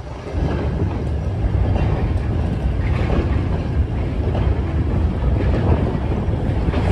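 Goods train of four-wheeled freight wagons (tank wagons, open wagons and iron ore hoppers) rolling past, a steady low rumble of wheels on rail with irregular clanks and clatter.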